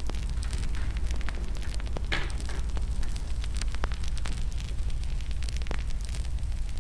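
Wood fire in a fireplace crackling: irregular sharp pops and snaps over a steady low rumble, with one louder, longer crackle about two seconds in.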